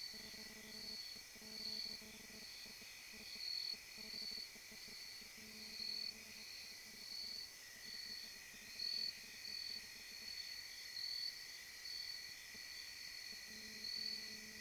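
Night insects chirping: a high pulsing call repeating about every three quarters of a second over a steady, unbroken drone.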